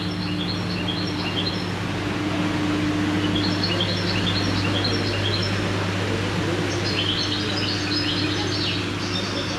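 Bird chirping: short phrases of quick, high chirps repeating every few seconds, over a steady low hum.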